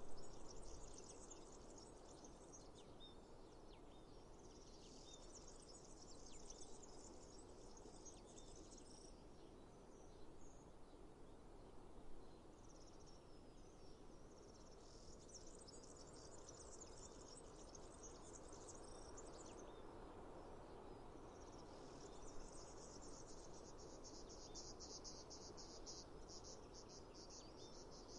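Faint high-pitched insect trilling in bouts of several seconds, the last bout a fast, even pulsing, over a soft steady background hiss.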